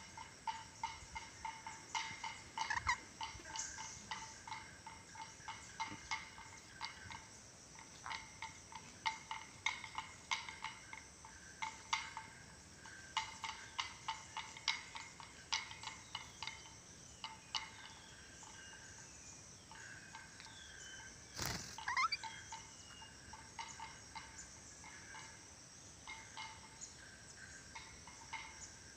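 Ornate lorikeet calling in a long run of short, sharp chirps, with a louder call and rising whistles about 21 seconds in.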